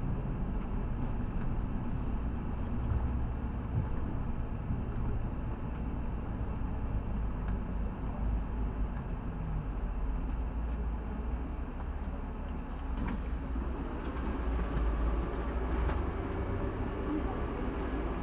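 Inside a LiAZ 6213 articulated city bus in motion: a steady low engine and road rumble. About two-thirds of the way through, a high hiss starts suddenly, and soon after a whine rises in pitch.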